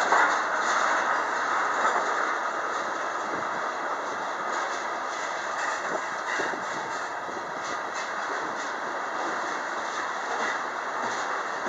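Freight train of tank cars rolling past: a steady rumble of wheels on rail with scattered short clicks and clacks from the wheels over the rail joints.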